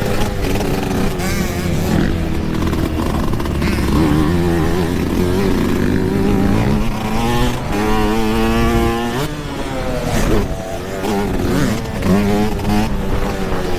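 Yamaha YZ125 two-stroke dirt bike engine revving hard, its pitch climbing and dropping again and again as the throttle is worked through the gears, with a deeper dip a little past halfway.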